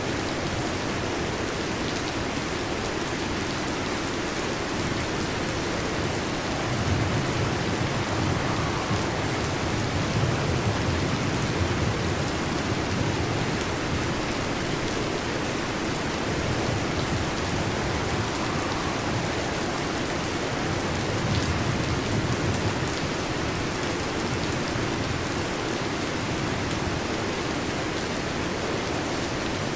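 Heavy rain drumming steadily on a metal roof. Low thunder rumbles twice, once about a quarter of the way in and again about two-thirds of the way through.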